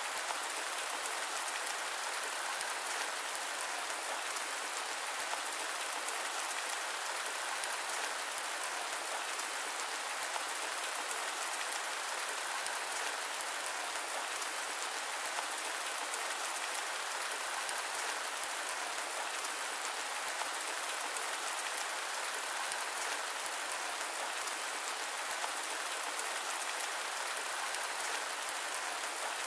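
Steady rain falling, an even hiss that never changes, with no thunder and no deep rumble underneath.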